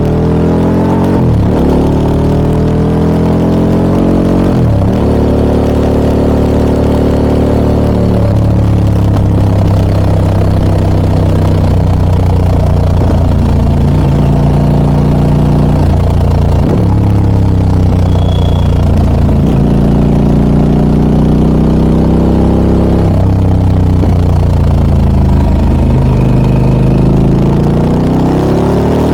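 Harley-Davidson Pan America 1250 Special's Revolution Max 1250 V-twin running through a Scorpion aftermarket exhaust under way. Its pitch climbs and drops sharply at upshifts early on, holds steady at cruise, then eases off and picks up again near the end.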